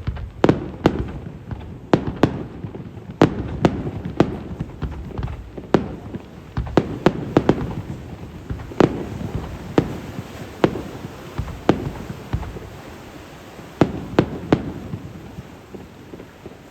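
Aerial fireworks shells bursting in quick irregular succession, sharp bangs a second or less apart with rumbling echo between them, thinning out near the end.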